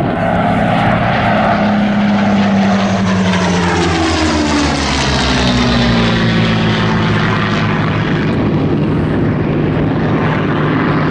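Rolls-Royce Merlin V12 piston engines of a pair of Spitfires flying past. The engine note drops in pitch as they pass, about four seconds in, and they keep running strongly afterwards.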